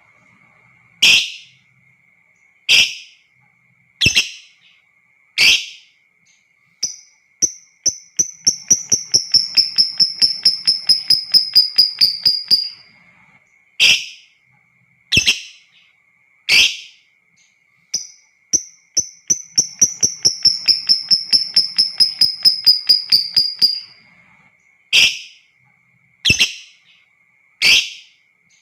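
Lovebird calling: sharp single shrieks about every second and a half, broken twice by a long, rapid chattering trill of several seconds, the 'ngekek' song. A faint steady high tone runs underneath.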